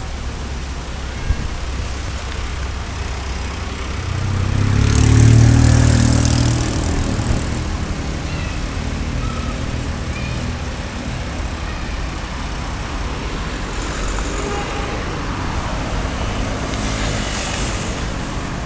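Street traffic, a steady rumble of engines. About four seconds in, one vehicle passes close by with a high hiss: its engine swells over a few seconds and fades.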